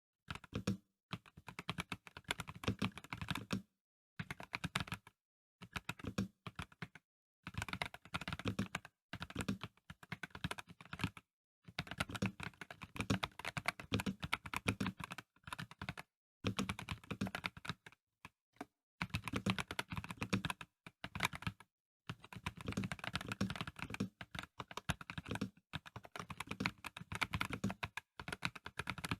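Typing on a Dareu A98 Pro mechanical keyboard with VioletGold Pro linear (non-clicky) switches: quick runs of keystrokes in bursts of a few seconds, broken by short pauses.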